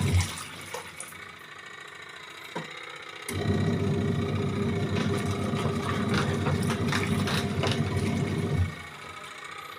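A 7 kg washing machine's wash motor turning the drum through water and laundry. It is quiet for the first three seconds, runs steadily with a hum for about five seconds, then stops again near the end, the stop-and-start rhythm of the wash cycle.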